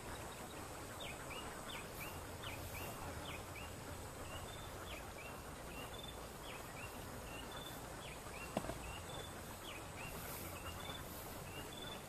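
A bird chirping over and over, short notes that fall in pitch, a few a second, over a steady outdoor hiss. A single brief knock about eight and a half seconds in.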